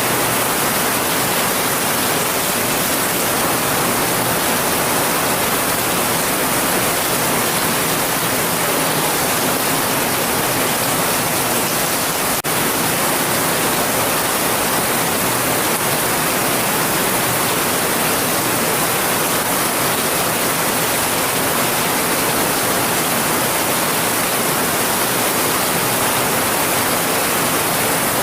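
Heavy rain falling steadily: a continuous, even hiss with no separate drops or thunder standing out. A faint click about halfway through.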